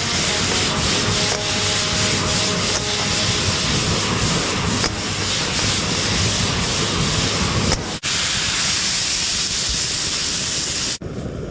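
A loud, steady hiss, broken by brief cuts about eight and eleven seconds in.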